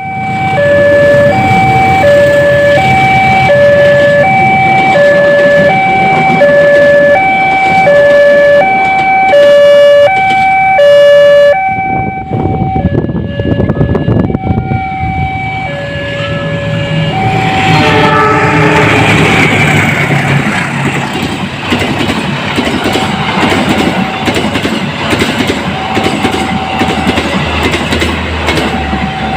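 Railway level-crossing warning alarm sounding a two-tone alternating chime, about one pair of notes a second, turning irregular after about twelve seconds. From about eighteen seconds in, a train passing over the crossing brings a loud, steady rushing noise that covers the alarm.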